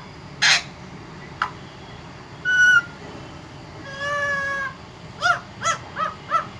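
Pet parrot calling: a short squawk, a brief clear call, a longer held call about four seconds in, then four quick arching chirps near the end.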